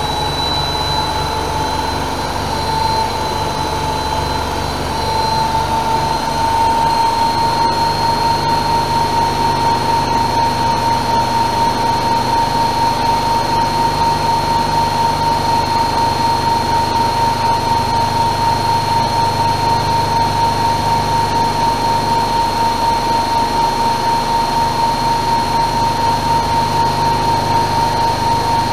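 AEG Öko-Lavamat Lavalogic 1600 washing machine spinning at high speed. The motor's whine steps up slightly in pitch about five seconds in and then holds steady, with an even, fast pulsing of the turning drum.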